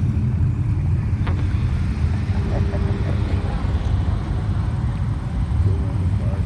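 Low, steady engine rumble of a passing car or truck.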